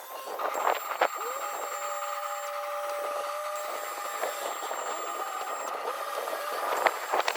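Electric motor of an all-electric vehicle's hydraulic lift pump running with a steady whine, switched on with a click about a second in and rising in pitch as it spins up. It is working the hydraulic lift under load.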